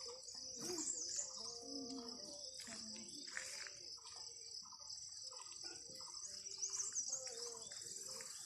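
Steady high-pitched insect chorus, with birds chirping over it a few times.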